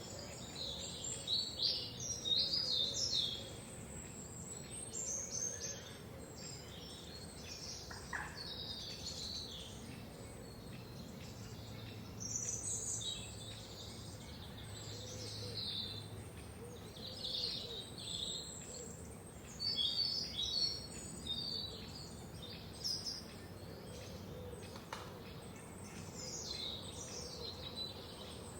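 Several songbirds chirping and singing at once, overlapping short high calls and trills that come in busier clusters now and then, over a faint steady hiss.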